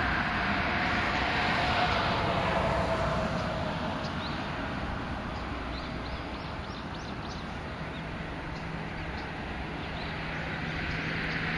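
Steady traffic noise from passing vehicles. In the middle there is a run of faint, short, high chirps from a bird, and a low steady hum sets in near the end.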